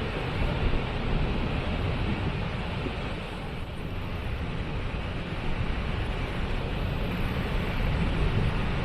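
Waterfall: a steady rush of falling water with a deep low rumble.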